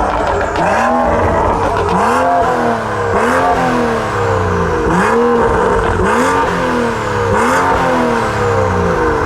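Car engine revved repeatedly, about seven quick blips, each rising and falling in pitch, roughly one every second or so.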